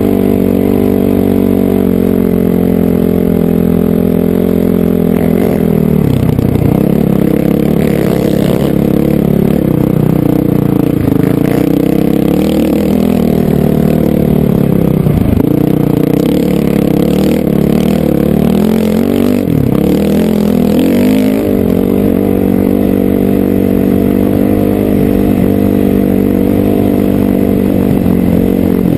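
Honda CRF450R dirt bike's single-cylinder four-stroke engine running steadily under riding load. Its pitch dips and climbs back a few times as the throttle is eased and opened again.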